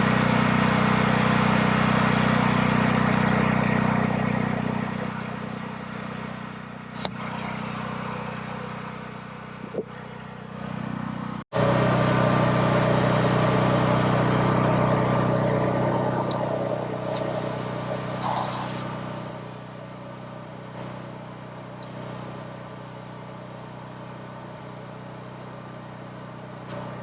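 Ram 1500 pickup truck driving, its engine running steadily under road noise. The sound cuts off abruptly about a third of the way in and comes back at full level, then fades lower twice.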